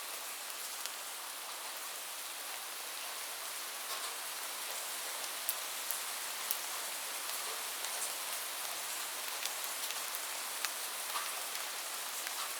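Steady rainfall: a continuous hiss of rain with scattered sharper drop ticks.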